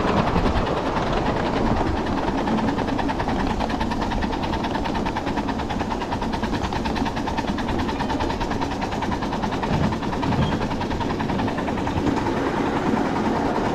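Ride-on 7½-inch gauge live steam train running along the track: steady wheel-on-rail noise from the cars and the working locomotive, with a rapid, even beat.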